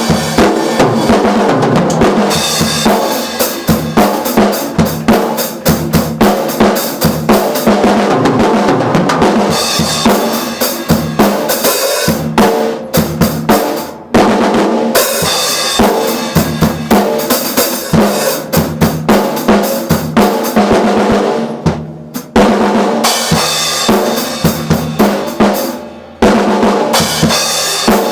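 Mapex drum kit played hard: a steady stream of bass drum and snare strokes, broken by a few brief pauses.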